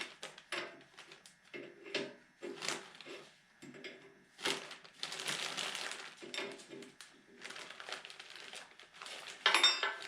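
Small objects being handled and rummaged through: a string of clicks and clinks, a longer rustle of about two seconds near the middle, and a louder clatter near the end.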